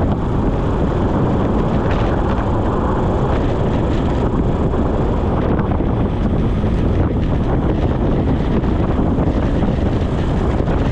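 Wind buffeting the microphone of a camera on a moving bicycle: a loud, steady rushing noise, heaviest in the low end, with no let-up.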